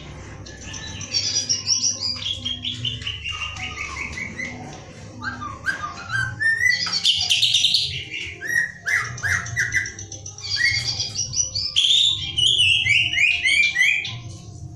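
Pet songbird singing a loud, varied song of quick repeated notes in phrases that step down in pitch, over a low steady hum.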